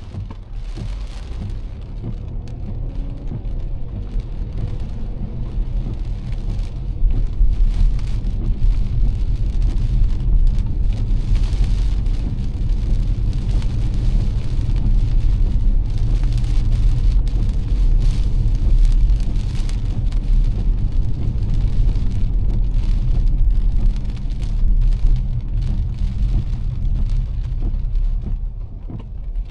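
A car driving in heavy rain: a steady low rumble of road and engine under the hiss and spatter of rain on the car, growing louder about seven seconds in.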